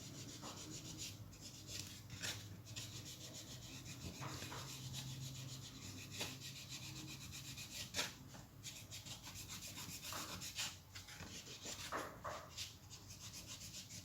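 Faint rubbing and light scraping of a cotton wad wiped over a copper printed circuit board, spreading silver nitrate solution to coat and whiten the copper.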